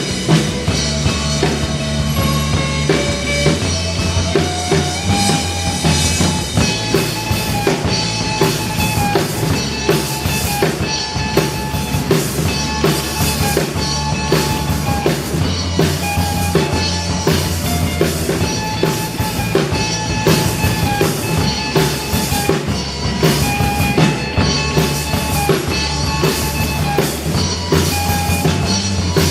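A live rock band playing an instrumental passage, with a full drum kit keeping a steady beat of kick and snare under bass and melodic guitar lines.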